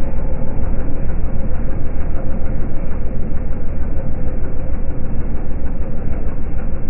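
Diesel drag car's engine running steadily, a deep rumble with a fast, even pulse.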